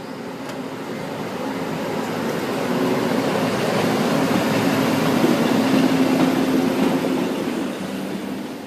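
EF65 electric locomotive passing, its rumble building to a peak about five to six seconds in and then fading, with a steady hum beneath it.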